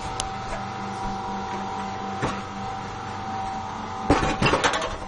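A steady machine hum with a few fixed tones, broken about four seconds in by a quick run of sharp clatters or knocks.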